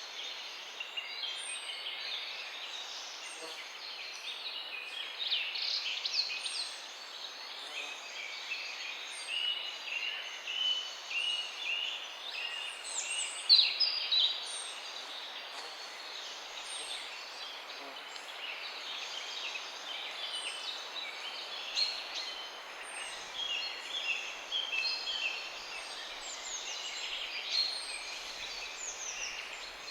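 Morning chorus of several songbirds chirping and trilling over a steady background hiss, with a thin high note repeating every second or two; a louder burst of chirps comes about halfway through.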